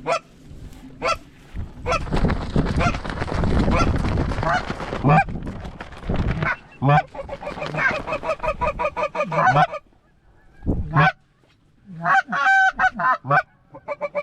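Canada geese honking and clucking, short repeated calls that come in a fast even run near the middle and as bending honks near the end. A few seconds of rushing wind noise come in about two seconds in.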